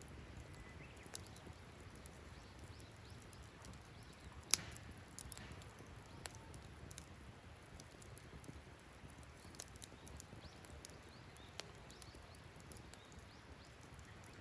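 Campfire crackling: irregular sharp pops and snaps of burning wood over a soft low hiss, with one louder pop about four and a half seconds in.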